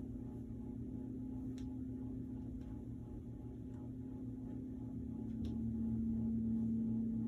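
Gong ringing in a sustained low hum, with a steady tone over a rumbling wash that swells louder about five seconds in. Two faint ticks come about a second and a half in and near the five-second mark.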